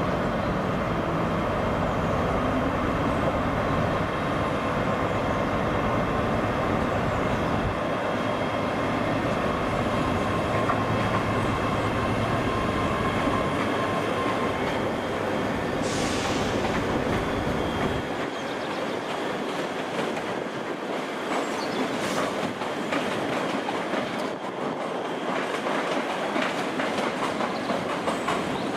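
A train moving through a station, its wheels clicking over rail joints, with brief high wheel squeals. A deep rumble underneath drops away sharply about two-thirds of the way through.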